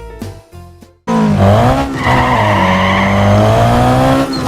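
A few last notes of children's music fade out, then about a second in a loud recorded race-car engine sound cuts in suddenly. Its pitch dips and then holds steady.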